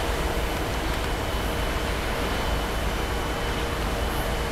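Steady rumble of a distant freight train with four locomotives passing, mixed with highway traffic, with a faint steady whine running through it.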